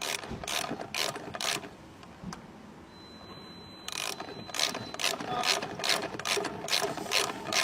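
A run of sharp mechanical clicks, about three to four a second, with a lull about two seconds in and then resuming more densely about four seconds in; a faint high steady tone sounds just before they resume.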